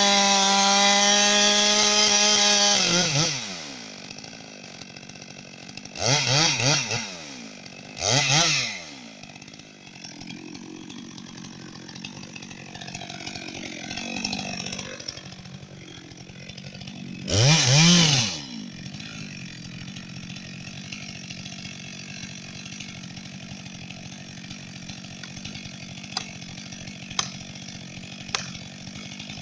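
Two-stroke chainsaw held at high revs, then dropping back to idle about three seconds in. It is blipped three times in short rising and falling revs, twice between about six and nine seconds and once near the middle, and idles in between. A few faint clicks come near the end.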